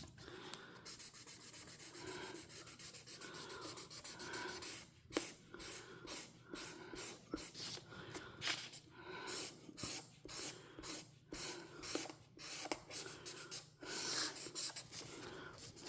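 A coloring tool scratching back and forth across a coloring-book page as an area is filled in: quick, close strokes in the first few seconds, then separate strokes with short pauses between them.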